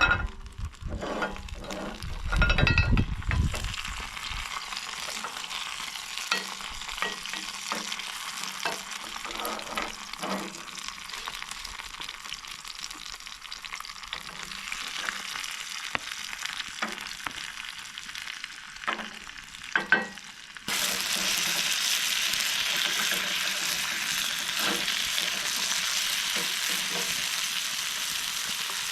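Bison burger patties sizzling in pans on a campfire grill, a steady frying hiss. There are a few low knocks in the first few seconds and a couple of clicks later, and about twenty seconds in the sizzle suddenly gets louder.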